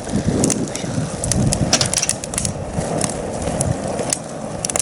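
Wood fire crackling, with irregular sharp pops over a steady rushing of the flames.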